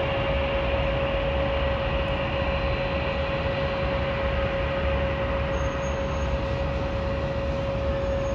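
Steady airport background roar with a constant mid-pitched whine, unchanging throughout.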